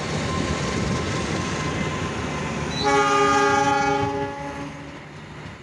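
Passing train rumbling steadily, then a diesel locomotive horn blast about three seconds in, several tones held for about a second and a half, after which the train noise fades.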